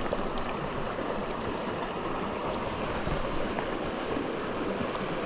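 Fast, shallow water of a small mountain creek rushing steadily over its bed.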